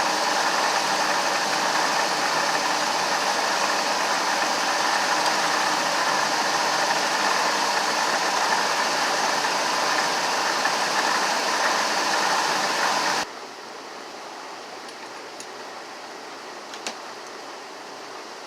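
Motorhome engine idling with a steady drone, cutting off abruptly about thirteen seconds in and leaving a quiet background hum with a couple of faint ticks.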